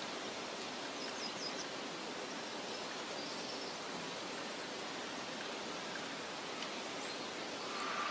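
Steady soft wind rustling through meadow grass, with a few faint high bird chirps about a second in and a short bird call near the end.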